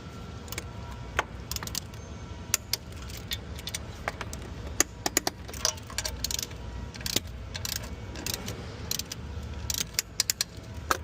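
Hand tools clinking and clicking against metal as a wrench works the nuts of the 6.7L Cummins' high-pressure fuel injection lines. Irregular sharp metallic clicks, some briefly ringing, over a steady low hum.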